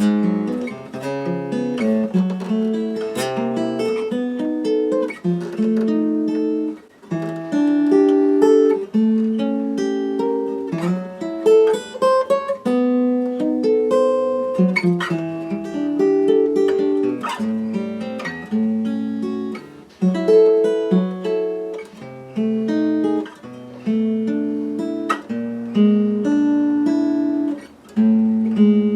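Steel-string acoustic guitar played fingerstyle: a picked melody over bass notes, each note ringing with clear overtones.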